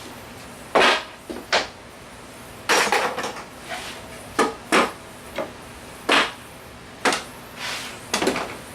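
An uneven series of about a dozen short knocks and clatters, of things being handled and set down, some sharper with a brief ring after them.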